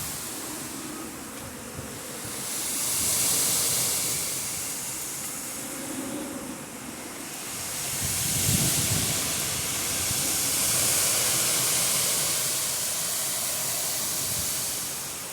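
Strong wind blowing in gusts, a hiss that swells and fades every few seconds.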